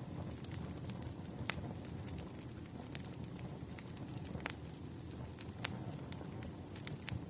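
Wood fire crackling: a steady low rumble of burning logs with scattered sharp pops and snaps, the loudest about one and a half seconds in.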